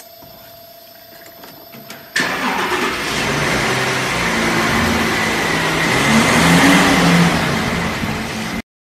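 Car engine revving hard. It comes in suddenly about two seconds in, rises a little in pitch, and cuts off abruptly just before the end.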